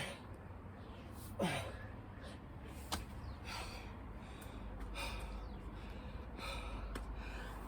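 A man breathing hard from exertion during a burpee workout: a short grunt falling in pitch about a second and a half in, then a series of loud, gasping breaths, with a couple of sharp knocks between them.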